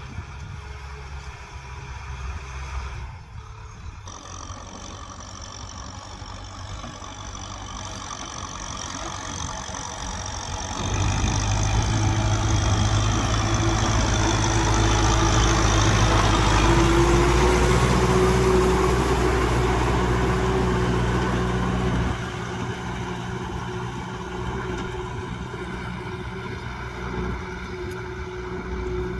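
Kubota M6040 tractor's diesel engine working under load while plowing a rice paddy. It grows louder about a third of the way in, stays loud through the middle with a slight rise in pitch, then drops back abruptly about three-quarters of the way through.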